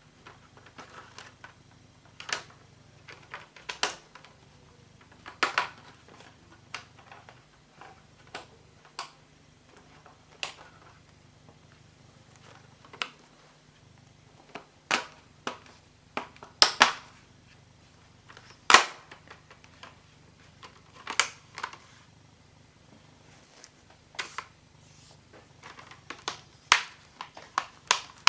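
Plastic screen bezel of an ASUS TUF FX705GB laptop being pressed onto the display lid by hand, its clips snapping into place in sharp, irregular clicks, roughly one every second or two.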